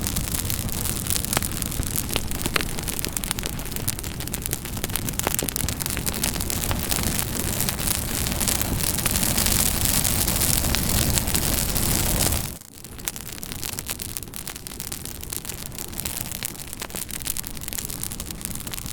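Campfire burning: a steady rushing hiss with frequent sharp crackles and pops of burning wood. About twelve and a half seconds in, the sound dips briefly, then goes on quieter with less low rumble.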